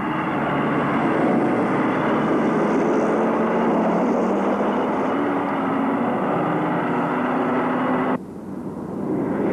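Rally car engine running hard, a steady drone with a slight rise and fall in pitch. It cuts off suddenly about eight seconds in, and a quieter engine sound takes over and grows louder near the end.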